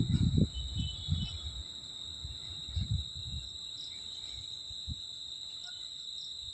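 Crickets chirring in one steady, high-pitched drone. The low rumble of the passing EMU train dies away in the first second or so, and a few short low thumps come later.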